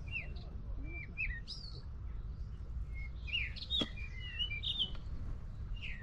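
Several small birds chirping and calling in quick, overlapping short notes over a steady low rumble. A single sharp click comes about two-thirds of the way through.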